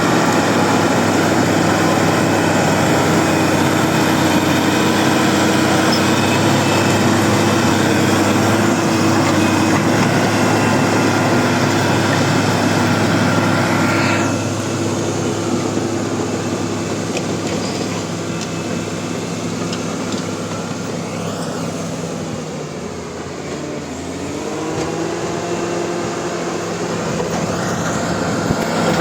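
Bulldozer diesel engine running steadily. About halfway through it gets quieter, and a little over three-quarters of the way in its pitch dips and then rises again.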